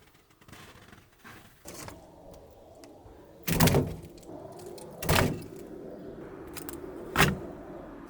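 Three heavy thuds, about one and a half to two seconds apart, over a low steady hum.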